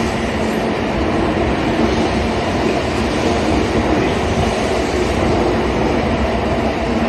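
Kyushu Shinkansen train running along the platform: a loud, steady running noise with a low hum beneath it.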